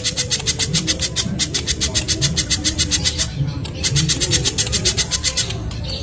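Spiderhunter (the bird-keepers' 'kolibri pijantung') calling in a long, fast run of sharp high chips, about nine a second, broken briefly about three and a half seconds in.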